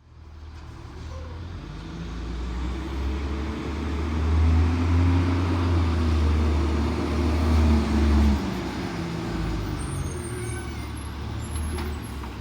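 Engine of an Autocar ACX automated side-loader garbage truck running, its revs climbing over the first few seconds and held high, then dropping back about eight seconds in.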